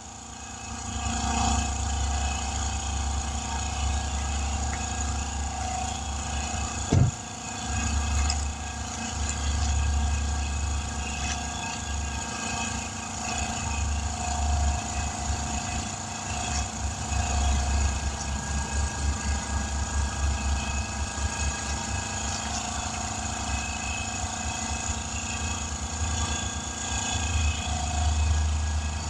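A small engine running steadily with a pulsing low rumble and a steady hiss, as a car tire is aired up to 35 psi. One sharp knock about seven seconds in.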